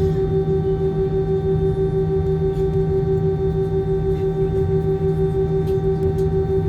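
Airplane engines droning steadily, heard from inside the cabin: a constant low hum with a strong, slightly pulsing held tone.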